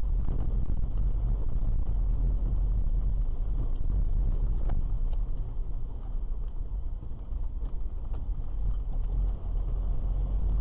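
A car driving, heard from inside the cabin: a steady low rumble of road and engine noise, with a few light clicks.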